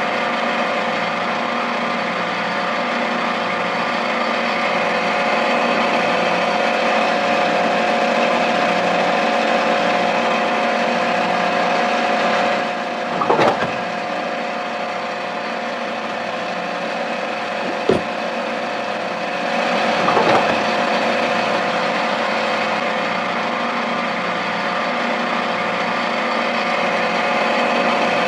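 A small electric motor of a miniature toy machine running steadily at a constant pitch, with three short knocks about 13, 18 and 20 seconds in.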